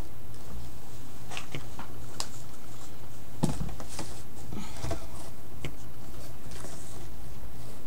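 Light handling noises on a work surface: scattered small clicks, taps and paper rustles, with one sharper knock about three and a half seconds in, over a steady low electrical hum.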